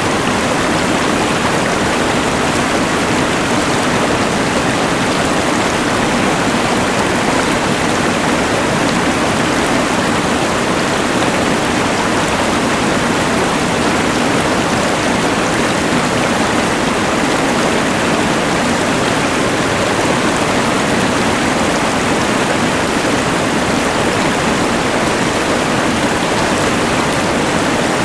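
Rushing mountain river, a steady, unbroken rush of water, blended with the even noise of a LectroFan white noise machine.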